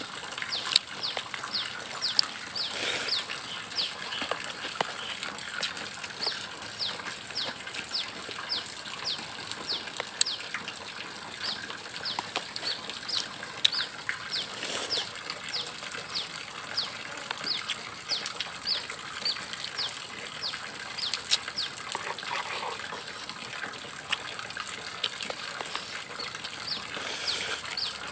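A bird chirping in a rapid series of short falling notes, about three a second, over a thin steady high tone, with occasional small clicks.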